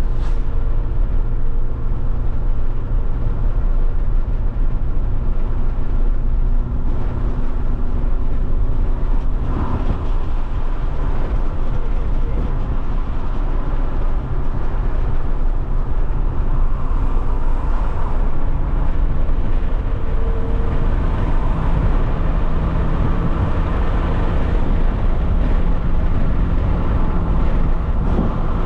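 Alfa Romeo 156 1.8 Twin Spark four-cylinder engine running under way, with tyre and road noise. The engine note holds steady, then settles a little higher about halfway through as the revs change.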